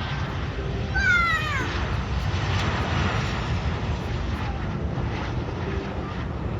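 Steady rumble of aircraft noise heard from a runway-side viewing area. About a second in, a short high call cuts through it once, falling in pitch.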